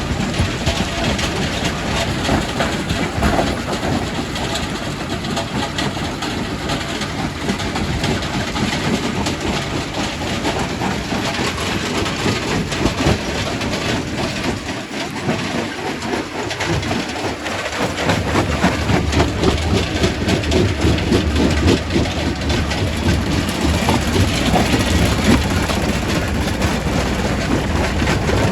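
Quarry primary rock crusher working: a continuous clatter of stone being broken, with a steady low machine drone that grows stronger about two-thirds of the way through.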